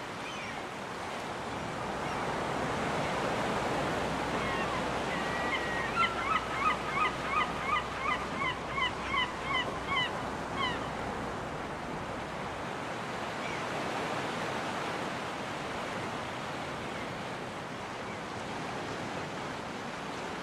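Surf washing steadily onto a beach, with a seagull calling a rapid series of about fifteen repeated calls, roughly three a second, starting about a quarter of the way in and lasting around six seconds.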